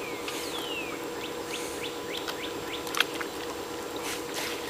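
Birds chirping: two falling whistles, then a quick run of short rising chirps, over a steady low hum. A single sharp click about three seconds in.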